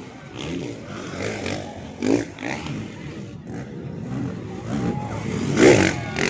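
Race motorcycle engines running and revving on the track, pitch rising and falling, with bursts of a voice over them; the loudest burst comes near the end.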